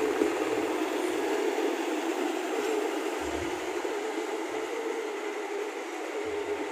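Passenger train coaches rolling past on the track: a steady rumble of wheels on rail that slowly fades as the end of the train goes by.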